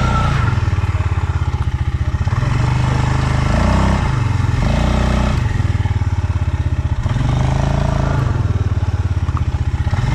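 Stels Leopard 650YL quad bike engine running under way, the revs dropping and picking up again a few times as the throttle eases and opens.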